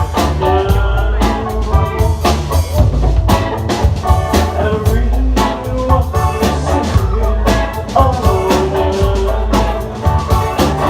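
Live rock band playing an instrumental passage: steady drum kit beats over a heavy bass, with a melodic lead line on top and no singing.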